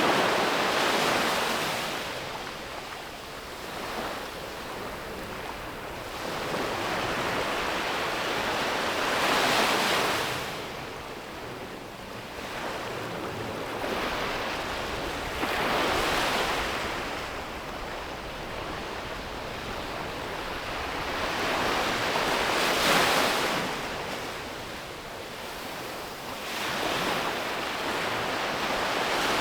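Sea waves breaking on a beach, the surf rising and falling in a surge every several seconds, with some wind on the microphone.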